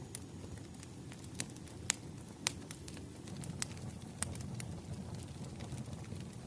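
Wood fire crackling: a steady low rumble of flames with irregular sharp pops and snaps from the burning logs.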